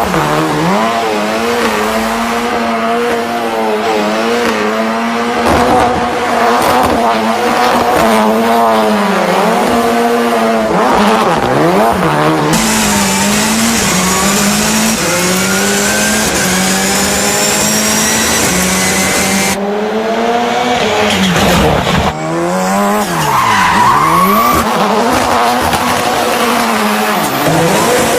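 Drift car engines running at high revs, the pitch wavering up and down with the throttle, over the squeal of tyres sliding sideways. The sound changes abruptly a few times, as at cuts between shots.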